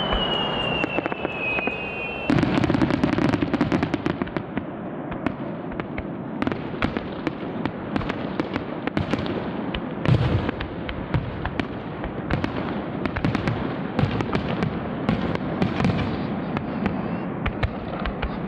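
Aerial fireworks bursting in quick succession: a dense, continuous crackle of sharp reports with a heavier boom about ten seconds in. A high whistling tone, falling slightly in pitch, sounds over the first two seconds.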